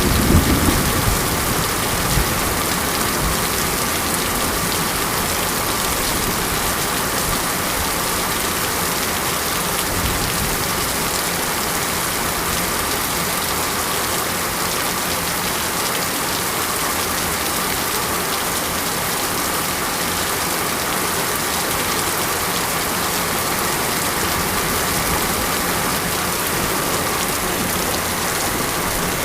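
Steady rain falling, an even hiss throughout. A low rumble of thunder dies away in the first second or two.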